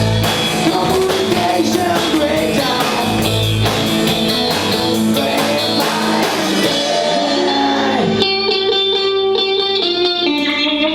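Live rock band playing, electric guitar over a drum kit. About eight seconds in the drums drop out and held guitar chords ring on.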